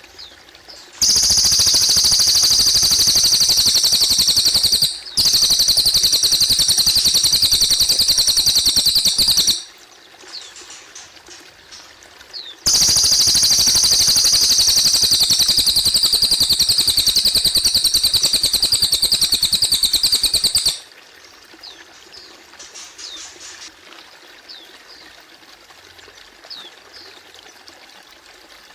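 Cililin bird singing two long, loud, very rapid high-pitched trills, each about eight seconds, the first with a short break midway. Between and after them come short, faint rising chirps over a soft trickle of water.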